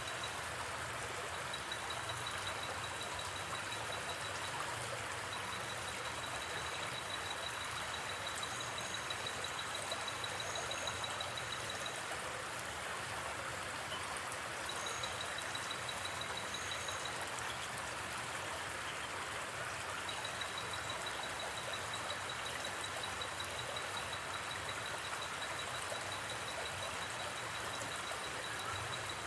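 Steady rush of a gently flowing river, with a high, rapidly pulsing trill that comes and goes several times, as from night insects.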